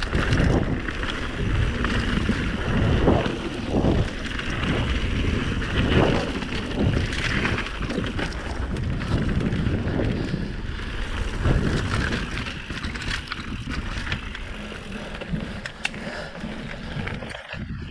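Mountain bike ridden fast along a dirt forest trail: steady tyre noise with the bike knocking and rattling over bumps, and wind buffeting the microphone.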